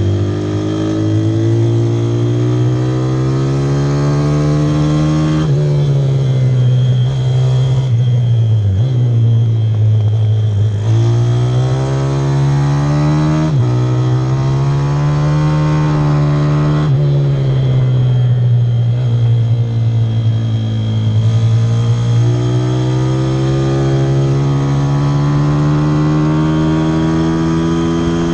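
Pit bike's single-cylinder engine ridden hard on track, its pitch climbing under throttle and dropping sharply at each gear change, with one stretch where it winds down off the throttle and then builds again.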